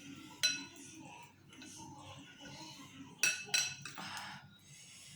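Spoon and chopsticks clinking against a bowl of noodle soup: a sharp clink about half a second in, then two more close together a little after three seconds.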